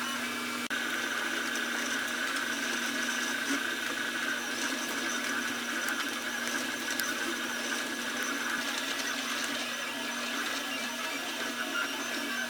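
Budget FDM 3D printer running a print: steady whirring of the stepper motors and fans, with a held high whine and light ticks. The sound drops out briefly about a second in.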